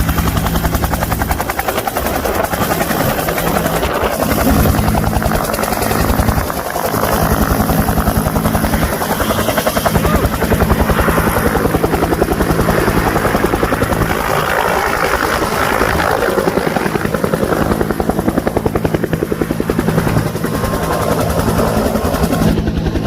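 Helicopter running: a fast, steady chop of the rotor blades over a continuous engine drone.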